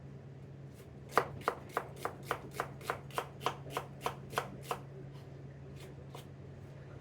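Kitchen knife slicing an onion on a cutting board: a steady run of about a dozen crisp knife strikes on the board, a little over three a second, then a couple of fainter cuts near the end.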